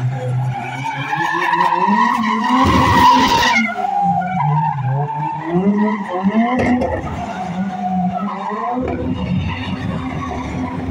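Car engine revving up and down while its tyres skid and squeal, as in drifting, with surges of tyre noise about three seconds in, near seven seconds and near the end.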